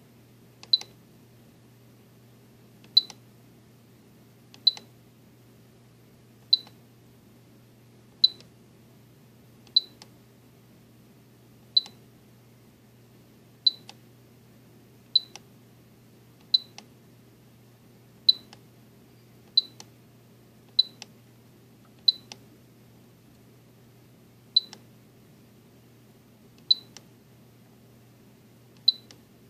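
Spektrum DX7 radio transmitter beeping once at each press as its setup menus are stepped through: about seventeen short high beeps, one every second or two, over a faint steady hum.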